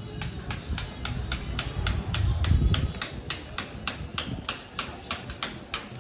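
Rapid, evenly spaced sharp taps or knocks, about four a second, over a low rumble that swells briefly in the middle.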